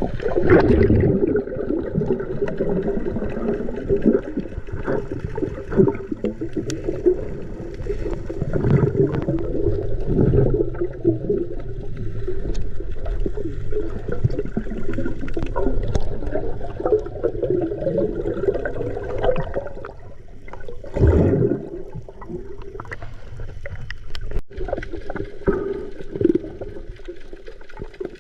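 Water gurgling and sloshing against the microphone, muffled and dull, with brief splashy bursts throughout.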